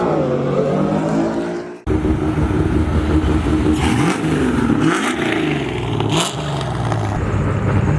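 Car engines at a drag strip revving up and down, several pitches rising and falling over each other. The sound cuts out briefly about two seconds in. A few short, sharp bursts of noise come around the middle.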